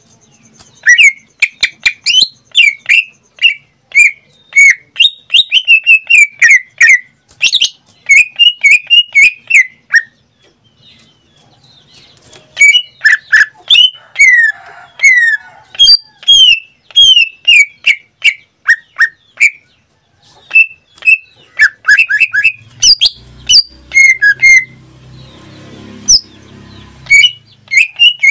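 Pet cucak ijo (leafbird) singing in full voice: fast runs of sharp, sweeping whistled notes and chips, with a short break about ten seconds in. A faint low rumble sits under the song near the end.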